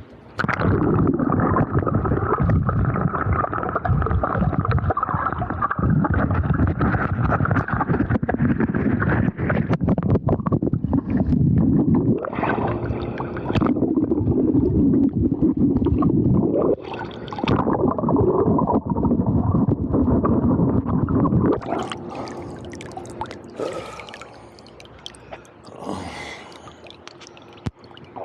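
Water noise picked up by an Insta360 Go 2 action camera's built-in microphone while it is submerged: a loud, muffled gurgling rumble. About 21 seconds in it gets quieter and thinner, with more high crackle and hiss.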